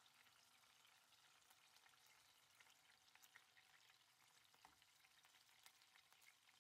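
Near silence, with only a very faint crackling of pork frying in oil in a pan.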